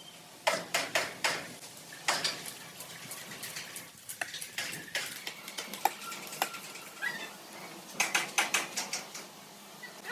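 Light metallic clinks and taps in irregular clusters, as of steel tools and parts being struck or handled, with a dense run of quick taps near the end.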